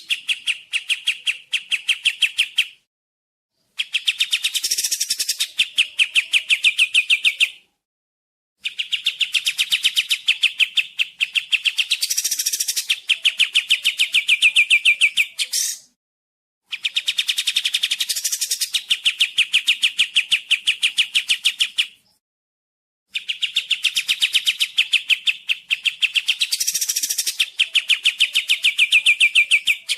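Kapas tembak songbird calling in long, rapid trills of quick repeated notes. The song comes in bouts of several seconds, broken by short pauses of about a second.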